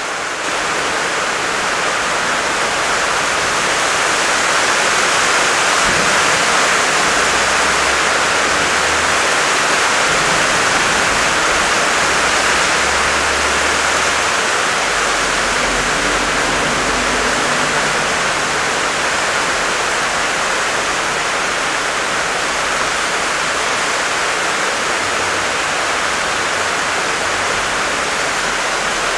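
Heavy rain downpour: a steady, dense hiss of rain pelting pavement and water running over the ground.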